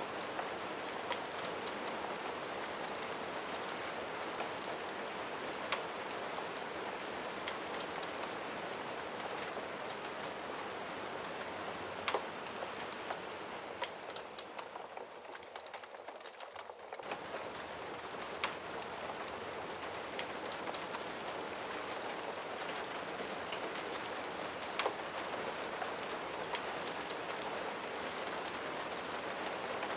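Steady rain falling, an even hiss with scattered sharp drip ticks. A little before the middle it thins and fades, then comes back at full strength suddenly a little past the middle.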